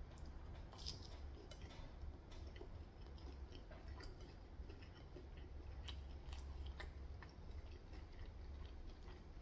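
Faint chewing of crispy Korean fried chicken: scattered small crunches and mouth clicks over a steady low hum.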